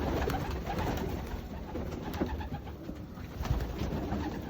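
Young racing pigeons cooing in a loft, with scattered clicks and knocks of birds moving about.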